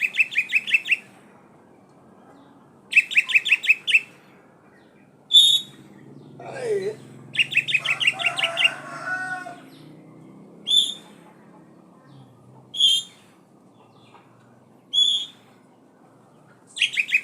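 Oriental magpie-robin (kacer poci) singing: three rapid, trilled phrases about a second long, spaced by single sharp high whistled notes every couple of seconds. A lower, falling call is heard briefly in the middle.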